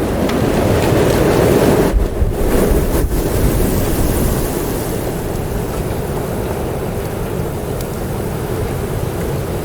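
Strong wind gusting, with a loud steady rush that buffets the microphone and briefly drops away about two and three seconds in.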